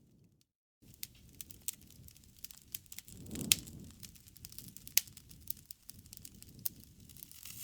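Bonfire crackling: scattered sharp pops and snaps over a low rush of burning, with the loudest pop about three and a half seconds in, amid a brief swell of low rumble. The sound drops out to silence for a moment just after the start.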